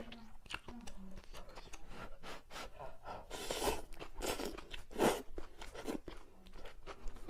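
A person chewing and crunching crispy food close to the microphone: many small crackles, with louder crunching bursts around three and a half, four and a half and five seconds in.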